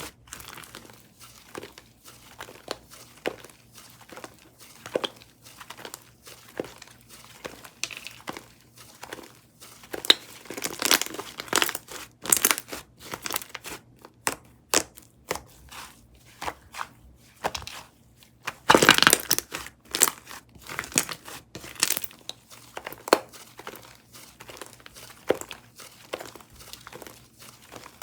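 Slime being squished, poked and stretched by hand, giving irregular crinkly crackles and small pops. Busier stretches of crackling come about ten seconds in and again near the two-thirds mark.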